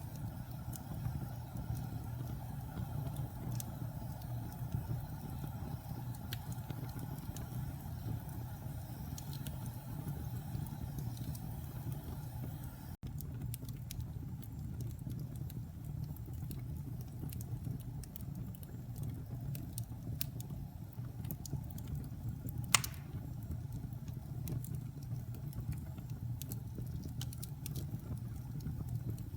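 Fire burning in a fireplace: a steady low rumble of flames with scattered small crackles and one sharper pop about 23 seconds in.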